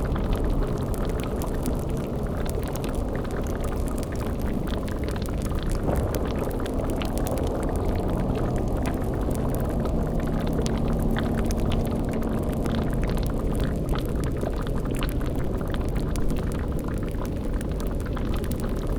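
Layered spooky ambience in which a cauldron boils and bubbles steadily over a low rumble, with fine crackles throughout.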